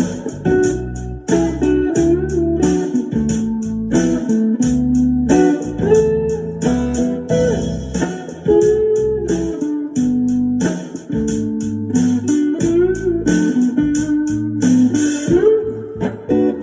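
Gretsch G5420TG hollow-body electric guitar played through a Fishman Loudbox Mini acoustic amplifier: a continuous run of picked notes, some of them bent in pitch.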